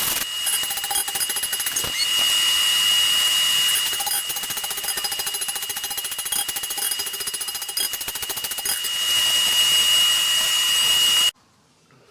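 Steady machine noise with a high, steady whine and fast rattling, which cuts off suddenly near the end.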